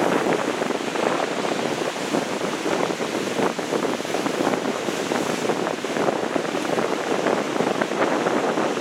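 Heavy ocean surf washing steadily, with wind buffeting the microphone in a rough, crackling rush.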